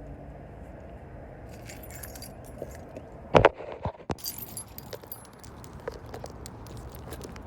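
Keys jangling in two short bursts, with a loud thump in between and a few lighter knocks after it.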